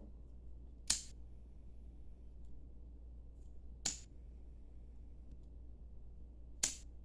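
Three short, sharp clicks, about three seconds apart, from hand work on a ribbon craft.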